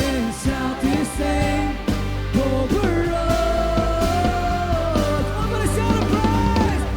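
Worship band playing an upbeat pop-rock song: drums and bass under a melodic lead line that bends between notes and holds one long note in the middle.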